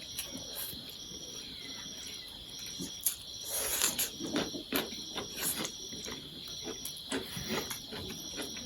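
Close-up eating sounds: a run of short irregular smacks and clicks of chow mein noodles being chewed, over a steady high-pitched background whine.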